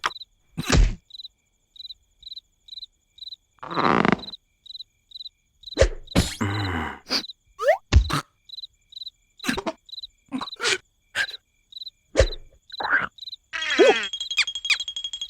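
Cartoon soundtrack: a steady cricket-like chirp about two to three times a second, crossed by sharp slapstick thuds and clicks and short voice-like squeaks and grunts. Near the end a denser, higher insect chirping comes in.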